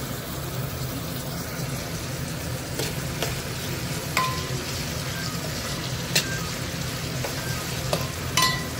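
Sliced onions and curry leaves sizzling in hot oil in a steel kadai, being stirred with a steel spoon. The spoon clinks and scrapes against the pan several times, a few of the clinks ringing briefly.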